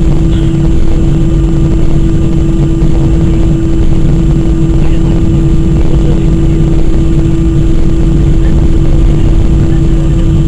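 Airbus A319's twin jet engines heard inside the passenger cabin during takeoff: a loud, steady low rumble with a constant droning tone.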